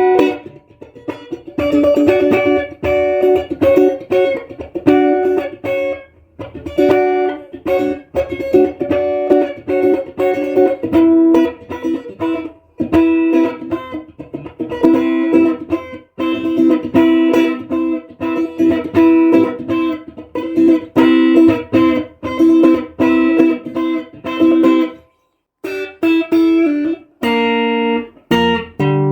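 Ash-body 1976 Stratocaster-style electric guitar played in picked melodic phrases, each broken off by a short pause.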